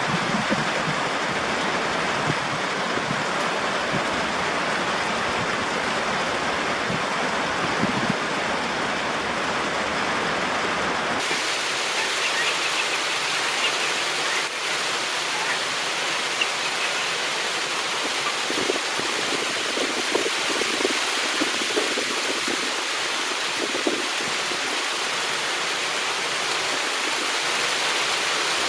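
Steady rain falling, a continuous hiss of water. About a third of the way in the sound changes abruptly to a brighter, thinner hiss.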